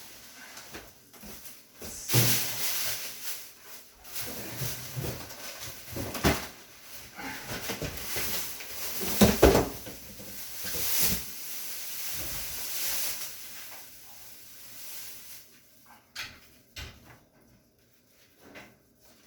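Styrofoam packing and wrapping paper rustling and scraping while a heavy microwave oven is worked out of its box, with a dull thud about nine seconds in. Quieter handling knocks near the end.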